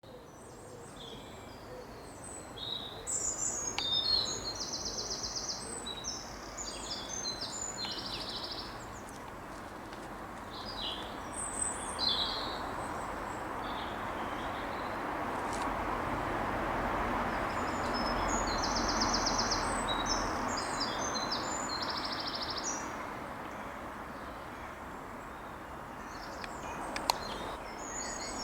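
Wild songbirds singing: bursts of varied high phrases with fast trills, repeated about every twelve seconds, over a steady background hiss that swells in the middle.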